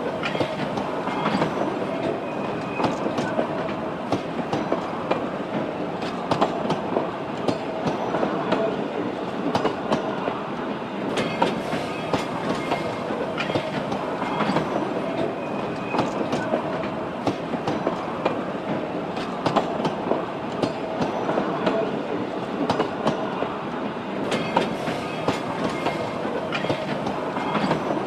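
A train running on rails, its wheels clicking and rattling over the rail joints with a steady rolling clatter.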